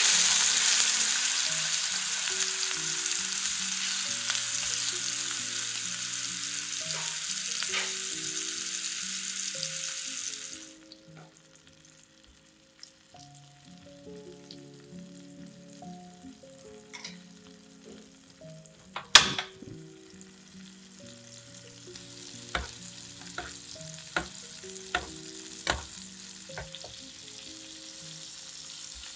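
Marinated chicken breast sizzling loudly in hot oil in a nonstick frying pan. About ten seconds in the sizzle drops off suddenly to a quieter frying in melted butter, with scattered pops and one sharp tap a little past halfway. Soft background music plays throughout.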